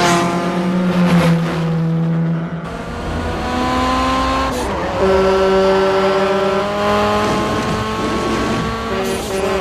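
Tuned Honda Civic coupes running hard at speed. Their high engine notes hold steady pitches that change abruptly a few times, as the revs shift.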